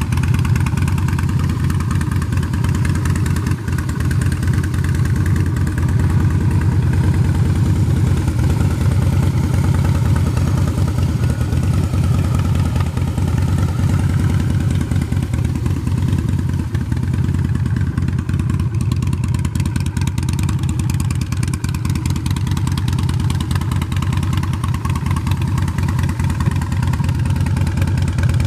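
Harley-Davidson Breakout's V-twin engine running steadily at idle through a Vance & Hines aftermarket exhaust.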